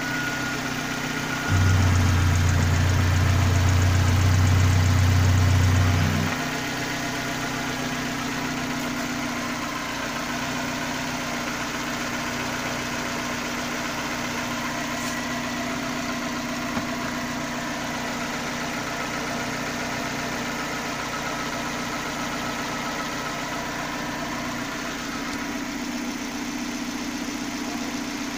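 Nissan QG15 1.5-litre four-cylinder petrol engine idling steadily in the car. About a second and a half in, a louder low hum comes in and lasts about five seconds, then stops suddenly.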